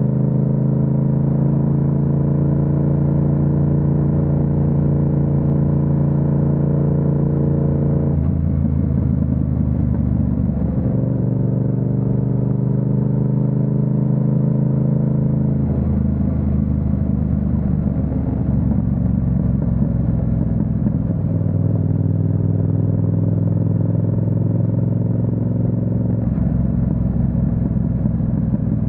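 Yamaha MT-07's 689 cc parallel-twin engine pulling along, its pitch climbing slowly under throttle and dropping abruptly four times as gears are changed or the throttle is rolled off.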